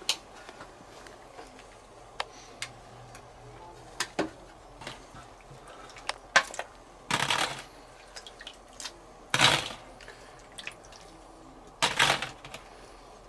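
Scattered clinks and knocks of dishes and cutlery, with three louder clatters about two and a half seconds apart in the latter half.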